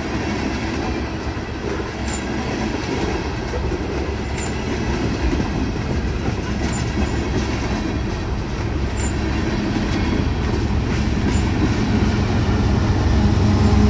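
Freight train of tank cars and boxcars rolling past at close range: a steady clatter of steel wheels on the rails.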